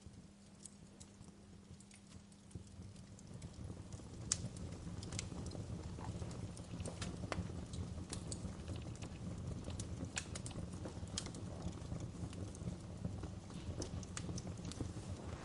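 Wood fire crackling, with irregular sharp pops and snaps over a low rumble of burning. It grows louder about three seconds in.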